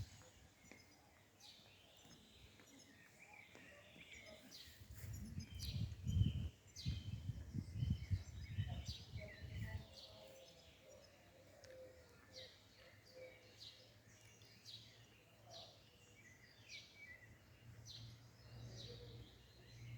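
Small songbirds chirping and calling over and over, with short quick high chirps throughout. A louder low rumble comes in from about five to ten seconds in.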